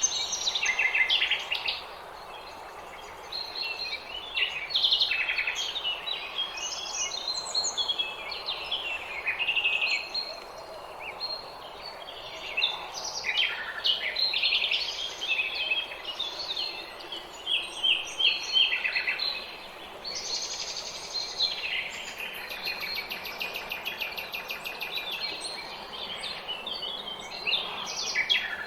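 Several small songbirds singing and chirping at once in a spring dawn chorus: quick overlapping chirps and short phrases, with a rapid trill about two-thirds of the way through, over a faint steady background hiss.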